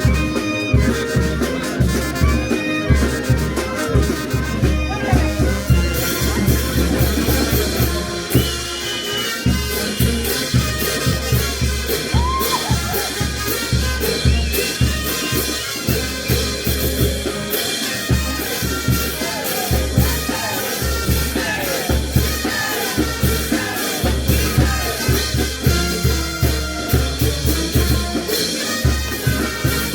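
Brass band playing a tune over a steady, regular drum beat, with cymbals and percussion growing busier about six seconds in.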